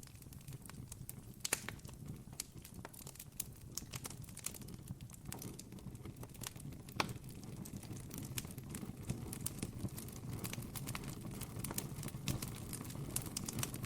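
Campfire crackling: irregular sharp pops and snaps, a louder one about seven seconds in, over a low steady rumble.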